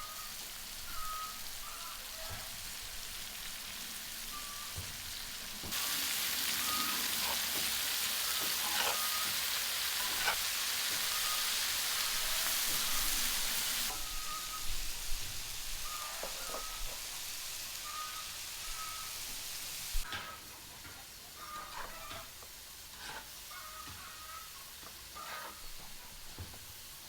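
Meat frying in hot fat with a steady sizzle, and now and then the click of a utensil stirring it. The sizzle jumps louder about six seconds in and drops back about halfway through.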